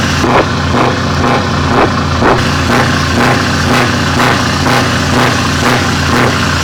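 Show truck's V8 diesel engine running loud and steady, with an even pulse about three times a second.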